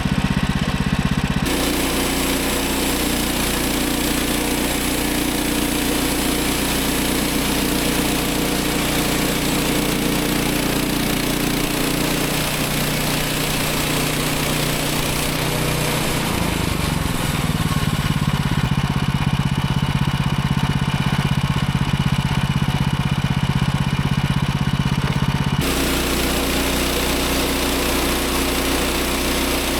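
Small gasoline engine of a Woodland Mills HM130 MAX portable bandsaw mill running steadily as the mill saws a log, its tone shifting a few times: suddenly about a second and a half in, gradually about halfway through, and suddenly again near the end.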